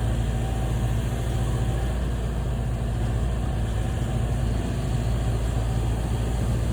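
Heavy equipment engine running steadily with an even low hum, as demolition machinery works to clear debris from a yard.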